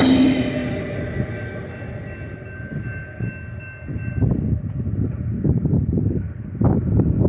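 Diesel locomotives of a BNSF light-engine consist passing and fading away, the noise dying down over the first few seconds. From about four seconds in, gusts of wind buffet the microphone with low rumbles.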